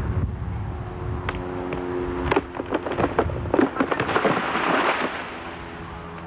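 A tree giving way and falling: a few sharp cracks, then a quick run of snapping, then the crash and rush of its trunk and branches coming down, fading near the end.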